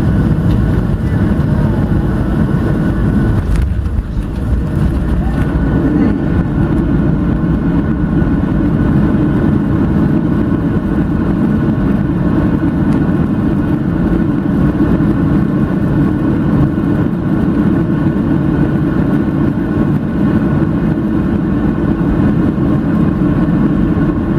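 Steady engine and airframe noise heard inside the cabin of a Boeing 737-700 rolling on the ground after landing, a constant low rumble with faint steady whine above it.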